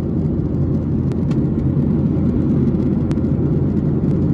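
Steady low rumble of a Boeing 737-800's passenger cabin in flight: engine and airflow noise.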